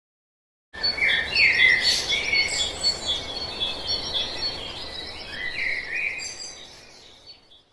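Birds chirping and singing over a steady outdoor hiss. It starts about a second in and fades out near the end.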